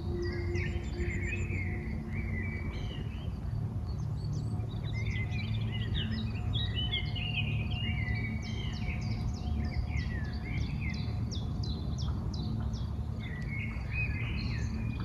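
Several songbirds singing and chirping at once, quick trills and short high calls all through, over a steady low rumble of outdoor background noise.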